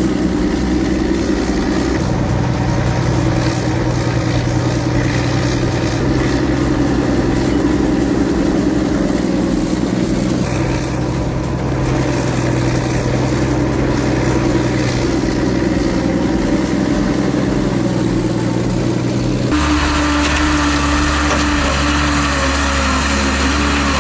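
Heavy-equipment diesel engines running steadily, the engine sound changing abruptly several times as one machine gives way to another, the last a deeper drone.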